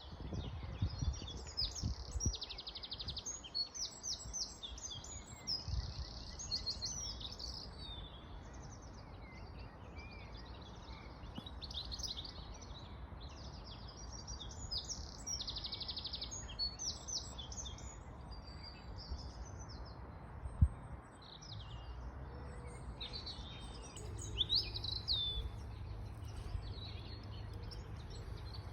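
Spring birdsong: several songbirds chirping and trilling over one another, with a low rumble beneath. A single sharp thump about two-thirds of the way through.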